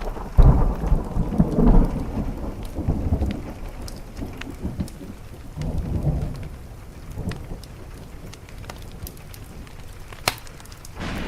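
Rolling thunder rumbling low over steady rain, swelling about half a second in and again near the middle before dying away. A wood fire crackles throughout as scattered sharp pops, one louder pop near the end.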